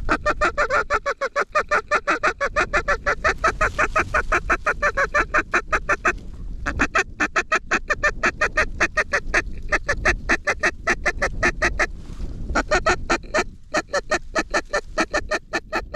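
Geese calling in rapid, even honks, about seven a second, in long runs broken by short pauses about six and twelve seconds in.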